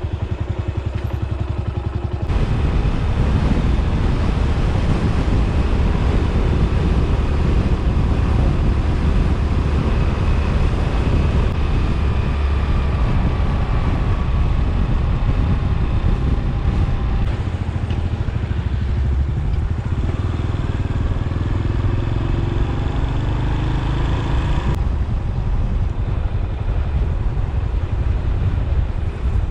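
Yamaha SR400 single-cylinder motorcycle being ridden, its engine running under way with heavy wind noise, the engine pitch rising a few times near the end.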